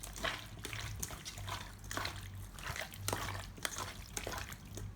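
Hands squishing and mixing raw pork pieces in a wet marinade of fish sauce and seasoning, a run of irregular wet squelches and clicks, over a low hum.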